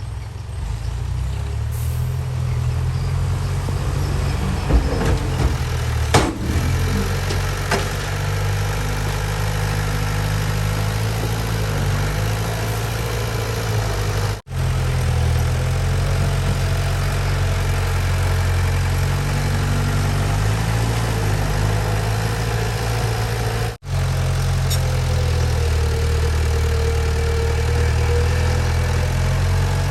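Heavy diesel engine of earthmoving equipment running steadily at a low, even pitch, with a few sharp metallic knocks in the first quarter. The sound drops out for an instant twice.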